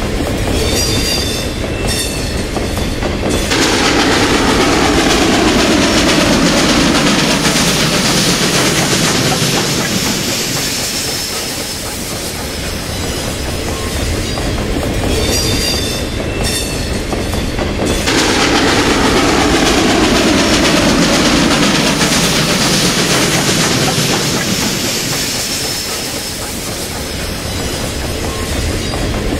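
Freight train cars rolling past on the rails with clattering wheels and some wheel squeal. The noise swells suddenly twice, about fifteen seconds apart, each time with a whine that falls in pitch over several seconds.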